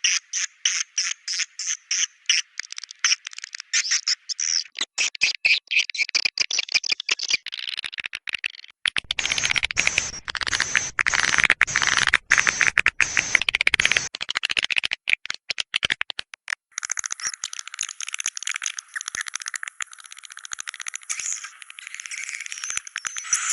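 Swiftlets twittering: a quick train of short, high chirps, several a second, that thickens into a dense chattering chorus. In the middle few seconds the chorus is crackly and reaches down into the bass.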